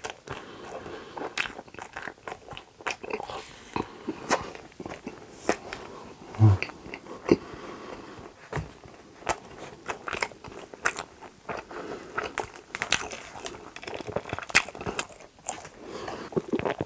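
Close-miked chewing and crunching of a bite of waffle, with crisp crackles and wet mouth clicks. About six seconds in comes a short low hum.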